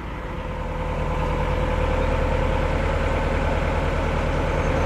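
Narrowboat's diesel engine running, getting louder over the first second or so as the boat sets off, then steady.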